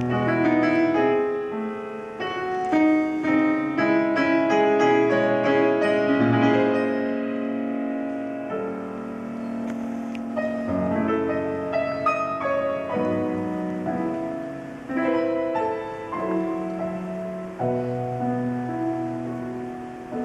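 Solo piano playing the introduction to a song, a run of notes and held chords with no singing yet.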